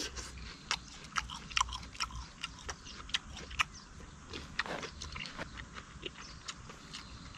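A person chewing a mouthful of chicken-breast salad, with many small irregular crunches and wet mouth clicks.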